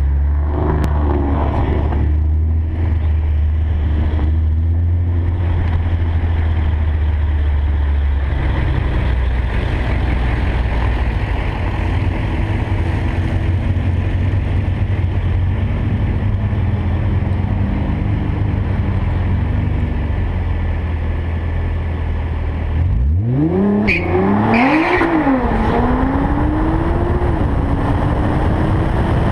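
A drag car's engine running at low speed through the staging lanes, then launching: about three-quarters of the way through, the revs climb sharply, dropping back at each quick upshift and climbing again as the car accelerates hard down the quarter mile. Wind rushes over the microphone throughout.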